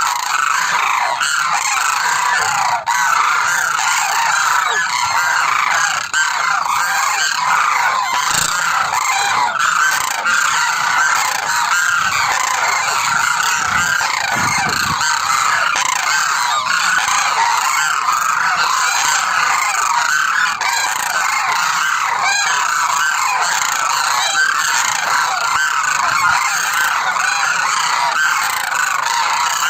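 A flock of demoiselle cranes (koonj) calling continuously, many overlapping calls forming a steady chorus.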